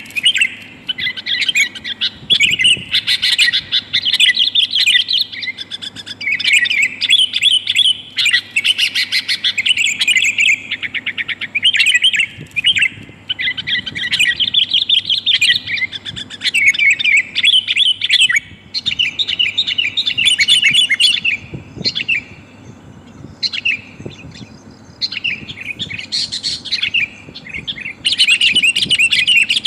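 Sooty-headed bulbul (kutilang) chattering in quick bursts of busy, rapid call notes, with short pauses between bursts; a lure call, a female calling to males.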